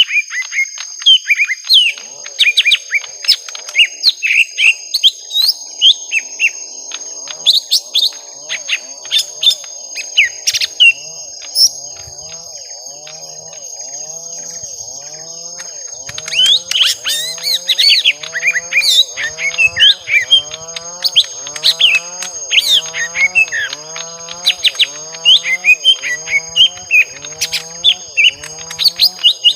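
Young lesser green leafbirds (cucak ijo mini) giving long bouts of rapid, scratchy chirping fight calls, with a short lull a little before the middle. A lower, repeated call sounds about once a second underneath.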